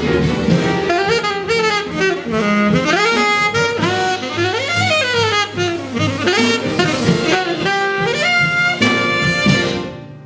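Jazz saxophone playing fast, winding runs over a band accompaniment, settling on a few held notes near the end before the music dies away.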